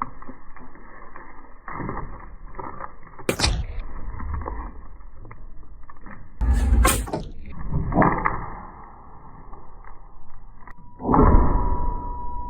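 Drywall being broken and pulled off a wall: irregular crunching, scraping and knocking, with a few sharp hits. Near the end comes a louder stretch with a thin steady tone.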